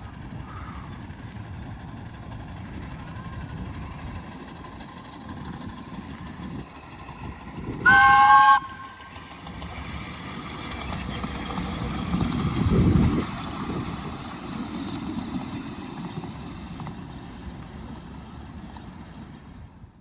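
Miniature passenger railway train running with a steady rumble. About eight seconds in it gives one short multi-note warning blast, the loudest sound. The rumble swells a few seconds later as the train passes closest, then eases off.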